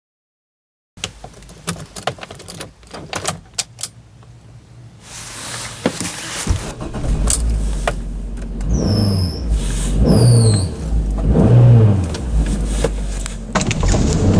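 Fiat Doblò Cargo van's 1.2-litre petrol engine on a cold start: a few clicks and rattles of keys and the cabin, then the engine cranks and catches about five seconds in and runs at idle. It is revved briefly three times near the end, each rev rising and falling back.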